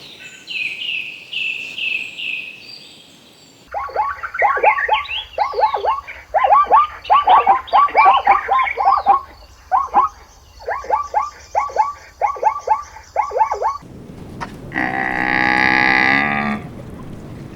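A few high chirps, then about ten seconds of rapid runs of short repeated animal calls, and near the end a single long cow moo.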